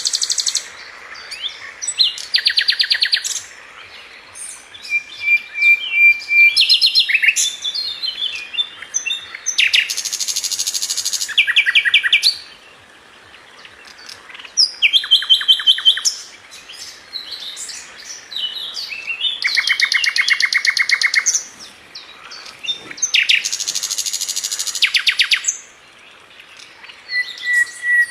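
Songbird known in the Indonesian bird trade as Sikatan London (a flycatcher) singing: phrases of rapid, evenly repeated high notes, each lasting a second or two, with scattered sharp chirps between them and a couple of held whistled notes.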